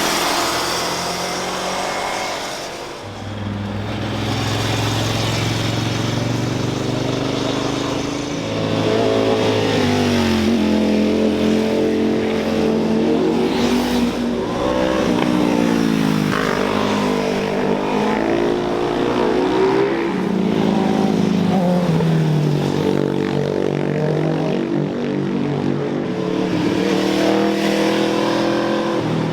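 High-performance car and motorcycle engines revving as vehicles take bends. A steady low engine note a few seconds in gives way, from about a third of the way through, to repeated rises and falls in engine pitch as they accelerate and back off.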